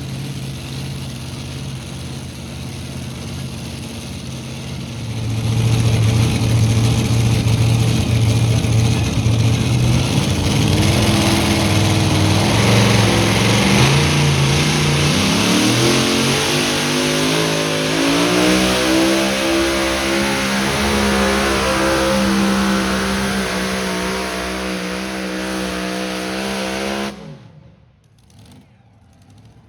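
A pulling tractor's engine running hard. It gets louder about five seconds in, revs climb from around twelve to eighteen seconds and then hold high and steady. The sound cuts off abruptly near the end.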